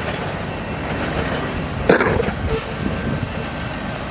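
Empty grain train's railcars rolling past on the track in a steady rumble, with one brief sharp clank or squeal about two seconds in.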